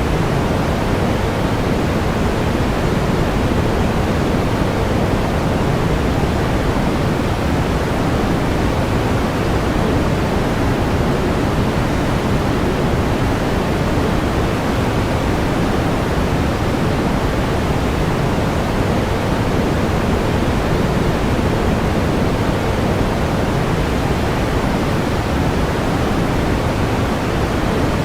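Steady pink noise: an even, unbroken hiss weighted toward the low end and falling off toward the highs, with no changes.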